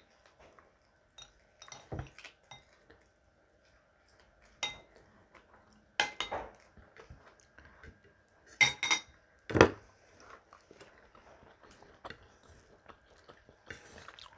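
Spoon and fork clinking against a plate and bowl while eating, a string of short sharp clinks with the loudest ones in the middle.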